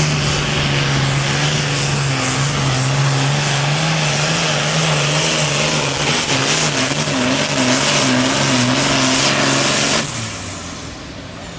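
A pulling tractor's engine running flat out under heavy load as it drags the weight sled, its pitch wavering slightly, with a thin high whistle over it. About ten seconds in the engine drops off sharply and the whistle slides down in pitch.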